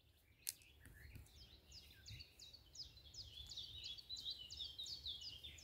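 Faint songbird song: a rapid run of short chirps, each sliding down in pitch, about three a second, starting about two seconds in. A single faint click about half a second in.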